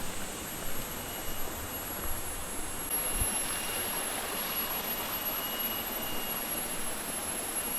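A steady, high-pitched insect drone from the jungle, growing stronger about three seconds in, over a hiss of running water; a weird noise that sounded like a vacuum cleaner.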